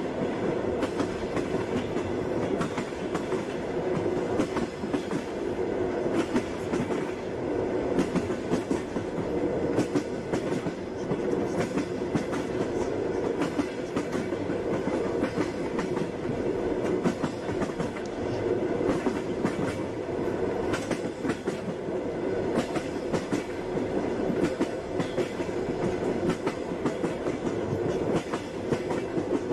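Passenger train running: the steady rumble of the railway carriage with the clatter of its wheels over rail joints, many sharp clicks coming at uneven intervals.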